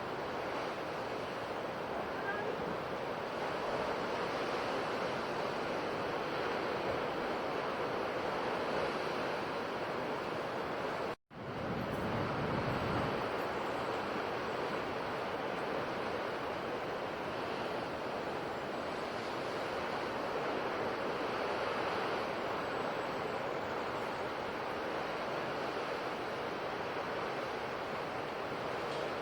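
Sea waves washing onto a shore: a steady rush of surf that swells and eases slowly. About eleven seconds in the sound drops out for an instant and comes back with a deeper surge.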